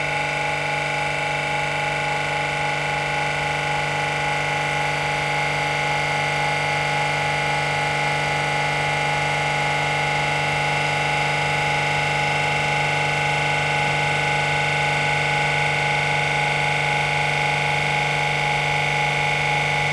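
GEA Bock HGX7/1620-4S semi-hermetic reciprocating piston refrigeration compressor running steadily on a test run, with a constant hum and whine.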